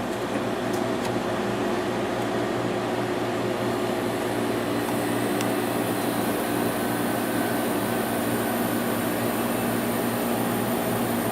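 Fedders 8000 BTU room air conditioner running just after start-up: a steady hum with fan rush. A faint high whine joins about five seconds in.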